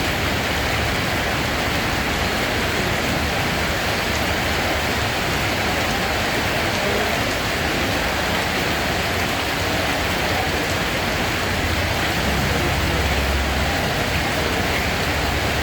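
Steady, continuous rainfall: an even hiss of dense rain falling on surfaces, with no breaks or changes.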